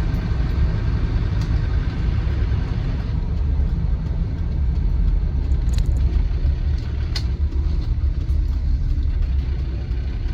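Land Rover Defender TD5's five-cylinder turbodiesel engine running with road and tyre noise, heard from inside the cab while driving: a steady low rumble.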